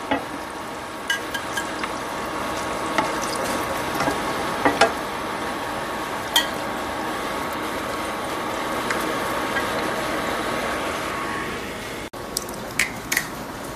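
Battered plantain fritters frying in hot oil in a pan, a steady sizzle, with a few sharp clicks of a metal slotted spatula against the pan and plate as the fritters are lifted out.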